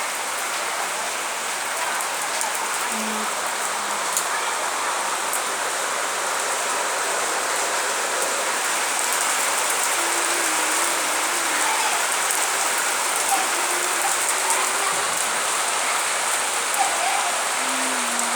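Rain falling steadily, an even hiss of drops on surfaces, with a few louder single drops standing out now and then.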